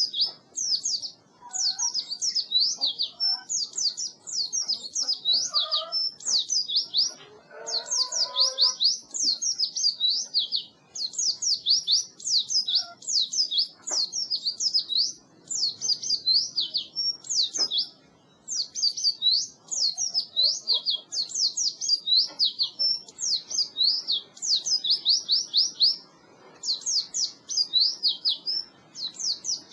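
A white-eye (pleci) singing its rapid, high-pitched twittering 'ngeriwik' song: long runs of quick sweeping notes, broken by short pauses every few seconds.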